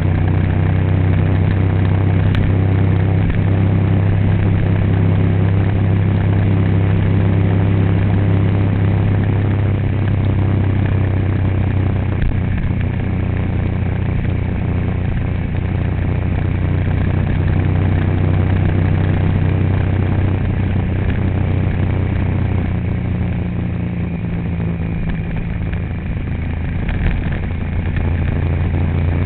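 A vehicle engine running steadily with a low hum, its pitch shifting slightly a couple of times.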